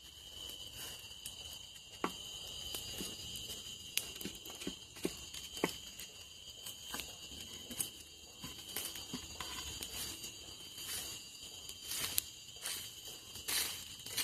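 Night insects chirring steadily in a high band, with scattered sharp clicks and crackles.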